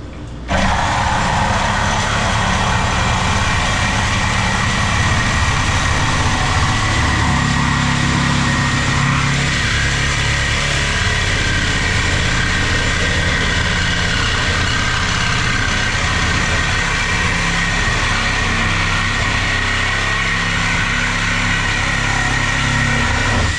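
Power saw cutting through a metal rail: the motor starts sharply about half a second in, runs steadily under load with a constant whine, and stops at the end.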